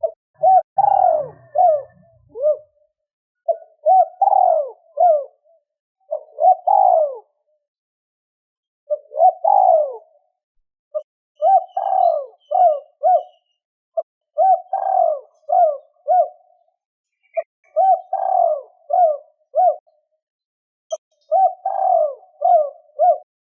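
Spotted dove cooing: phrases of several short, throaty coo notes, repeated every two to three seconds with brief pauses between them.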